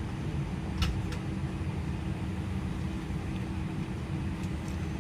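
Steady low rumble and hum inside the cabin of an Airbus A320-211, with two brief clicks about a second in.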